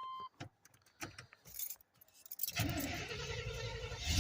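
Keys jangling and clicking at the ignition of a 1990 Chevy K5 Blazer, then from about two and a half seconds in the starter cranking the cold engine, on a battery of doubtful charge.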